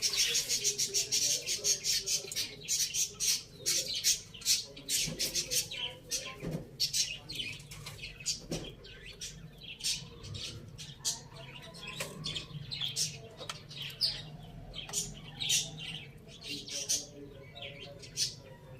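Birds chirping in a rapid, dense stream of short high notes, busiest in the first few seconds and thinning somewhat later.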